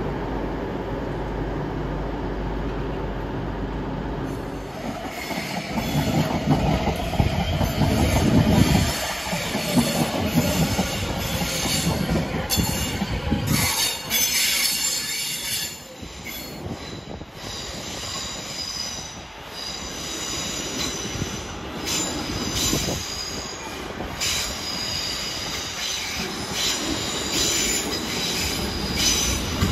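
Train running on the rails with its wheels squealing. From about four seconds in, high squeals come and go over a low rumble, with scattered clicks.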